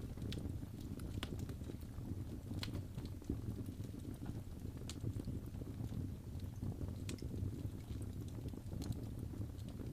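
Wood fire burning in a fireplace: a steady low rumble of flame with irregular crackles and pops.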